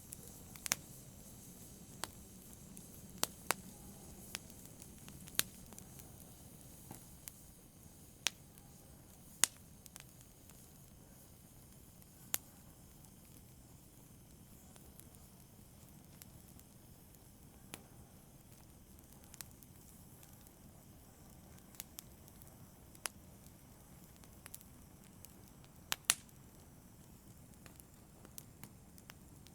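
Wood fire burning in a fireplace: a soft low rumble with sharp, irregular crackles and pops every second or two.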